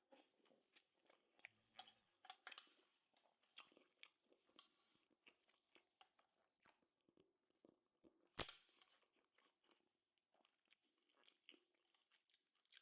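Very faint chewing and wet mouth clicks from someone eating, with one sharper click about eight seconds in.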